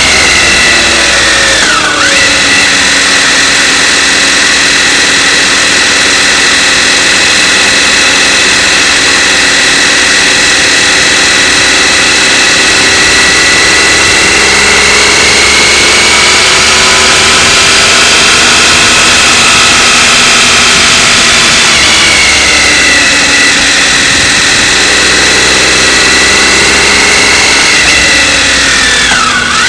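Motorcycle engine running under way, its note slowly rising and falling with the throttle, with a sharp brief dip in revs about two seconds in and another near the end, as at a gear change.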